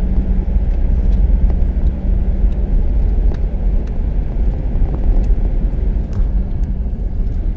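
Four-wheel-drive vehicle running, a steady low rumble with a faint engine hum through the first couple of seconds.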